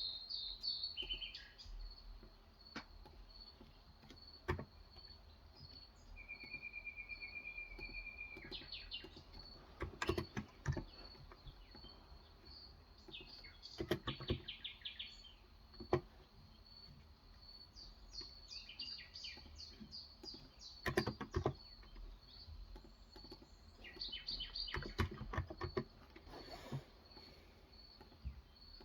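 Typing on a Cox Endeavour electro-capacitive (Topre-style, 35 g) tenkeyless keyboard, in short bursts of keystrokes several times, with birds chirping and trilling outside throughout.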